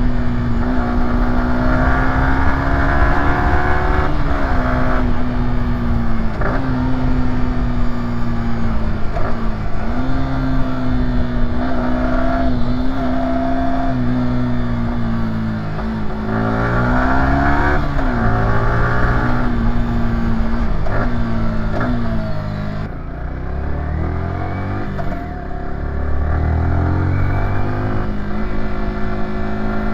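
Yamaha YZF-R125's 125cc single-cylinder engine heard from the rider's seat, its pitch rising and falling several times as the bike accelerates, shifts and backs off, over steady wind rush.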